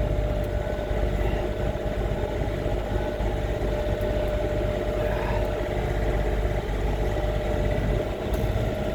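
John Deere 3720 compact tractor's diesel engine running steadily at working speed while driving a snowblower through light, cold snow.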